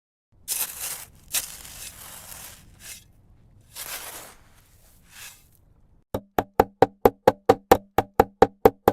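A few soft swishes, then from about six seconds in a fast, even run of sharp knocks, about seven a second, each with a hollow pitched ring.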